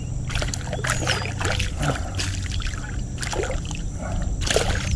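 Hooked bass splashing at the water's surface as it is pulled in to the bank, about six separate splashes over a steady low rumble.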